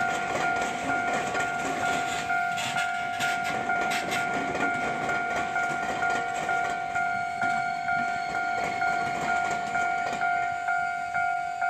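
A Japanese railway level-crossing alarm rings steadily at about two strokes a second. During the first few seconds a train's wheels clatter loudly over the diamond crossing, where the railway line crosses the streetcar tracks at right angles.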